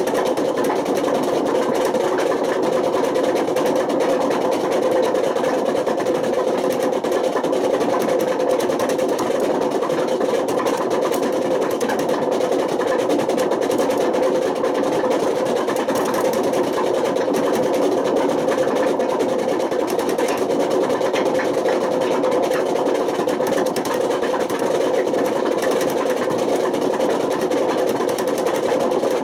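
Panasonic NA127VB6 washing machine running with worn-out drum bearings: a loud, steady mechanical noise with a strong hum under it.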